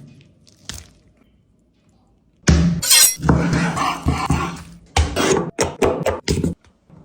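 Kitchen cookware and utensils clattering and knocking loudly. The sound starts about two and a half seconds in after a quiet spell and lasts about four seconds.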